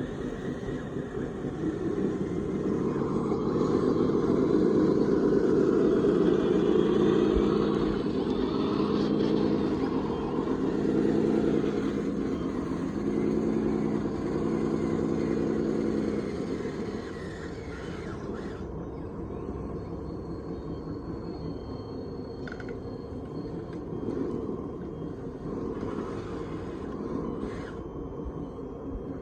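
Radio-controlled construction models running, electric motors and hydraulic pump humming. The sound grows louder and strains with changing pitch from about two seconds in to about sixteen seconds, then settles to a quieter steady run.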